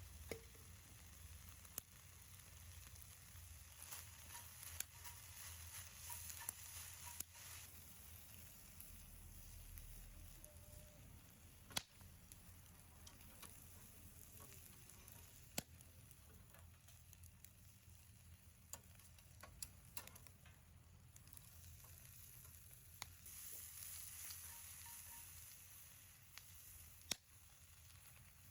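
Wood fire burning quietly in a garden fire pit: a faint steady hiss with sharp crackling pops every few seconds.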